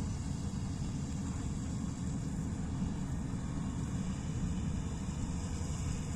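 Preet 987 combine harvester running steadily while harvesting paddy: a continuous low engine rumble with a faint hiss above it.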